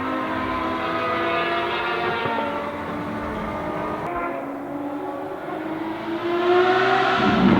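Ferrari FXX Evoluzione V12 race car on track: its engine note falls slowly in pitch and fades as it goes by, then after an abrupt change about four seconds in, an engine note rises in pitch and grows louder near the end as a car accelerates toward the microphone.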